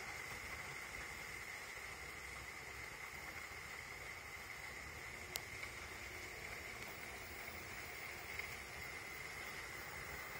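Heavy downpour heard through a closed window: a steady, even hiss of rain, with one faint tick about five seconds in.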